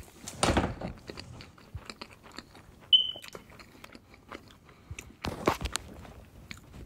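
Close-miked mouth sounds of a man chewing a mouthful of mille crepe cake: many small clicks, with louder chewing bursts about half a second in and again about five seconds in. About three seconds in comes one sharp click with a brief high ring, the loudest moment.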